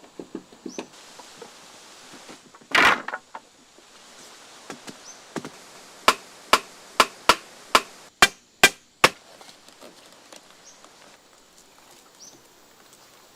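A tool chopping into wood with a quick run of about eight sharp strikes, roughly two a second, in the middle. Before that, about three seconds in, comes one louder, longer crash.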